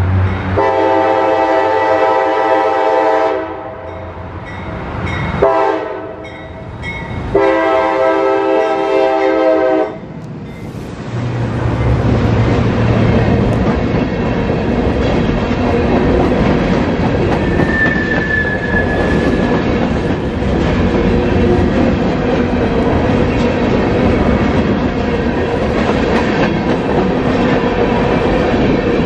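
A CSX freight locomotive's air horn sounding a long blast, a short one and another long blast, the grade-crossing signal. Then the locomotives rumble past, followed by freight cars clattering steadily along the rails, with a brief wheel squeal.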